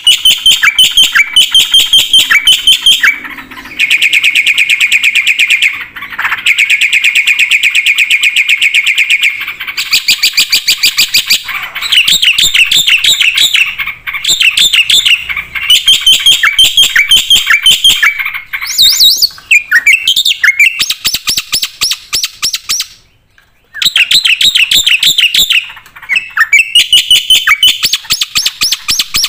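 Jalak putih (black-winged myna) singing loudly and energetically: long phrases of rapid, repeated chattering notes, separated by brief pauses.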